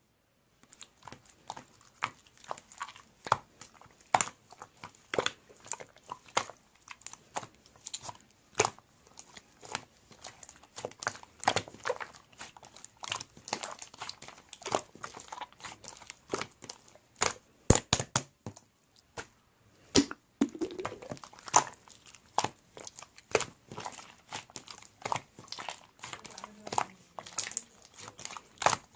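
Hands squishing, poking and stretching slime, making a steady stream of irregular sticky clicks and small pops.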